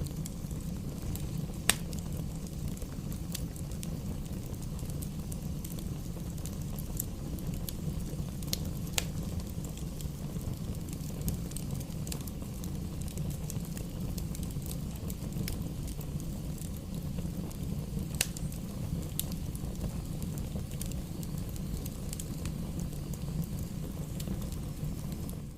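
Bonfire burning: a steady low rush of flames with scattered sharp pops of crackling wood, two of them louder than the rest.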